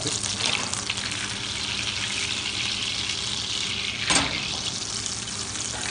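Steady frying sizzle: sliced onions sautéing in a stockpot, then butter melting and bubbling in a steel frying pan on a gas burner. A brief click about four seconds in.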